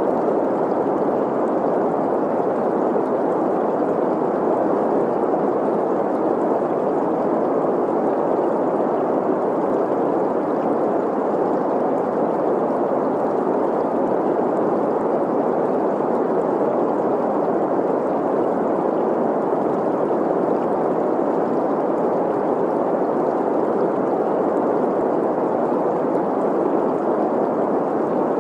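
Steady synthetic green noise, an even, unchanging rushing hiss that is mellow with little treble, blended with the flowing water of a stream.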